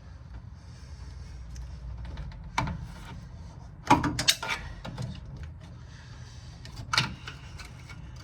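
Scattered clicks and knocks from hand work on an upper radiator hose and its collar as they are worked loose: a sharp knock about two and a half seconds in, a quick cluster around four seconds, and another near seven seconds, over a low steady hum.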